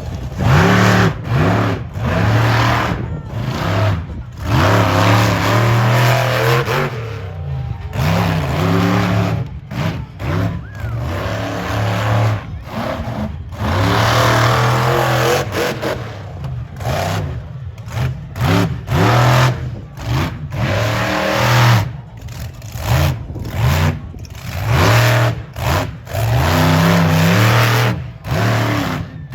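Monster truck engine revving hard over and over, its pitch rising and falling, with frequent sudden cuts as the throttle is let off between bursts.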